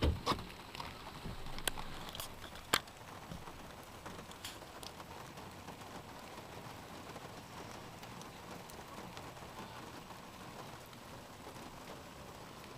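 Heavy rain falling steadily, with a few sharp taps in the first few seconds.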